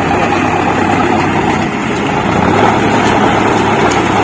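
Farm tractor diesel engine running steadily with a constant low hum.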